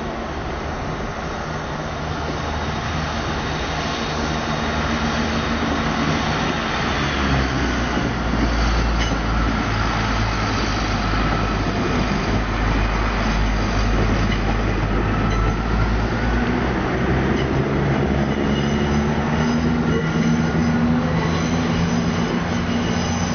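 A train running through a station, its deep, steady drive noise growing louder over the first several seconds as it comes closer, then holding. Faint high whining tones drift in pitch above it.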